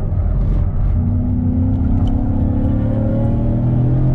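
Ford Mustang engine heard from inside the cabin, accelerating out of a corner under load; its note rises steadily from about a second in.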